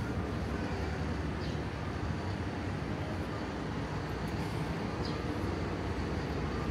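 Steady city-street ambience: an even traffic rumble with a few faint, short high chirps now and then.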